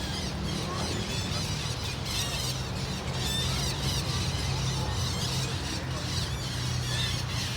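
A flock of green parrots calling, with many short, squeaky chattering calls overlapping throughout. A steady low hum runs underneath.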